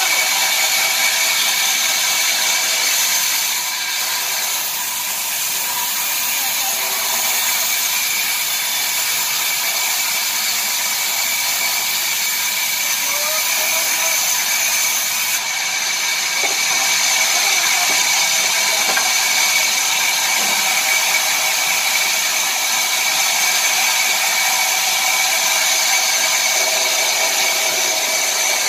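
Sawmill wood-cutting machinery running steadily: a continuous hiss with a high, even whine.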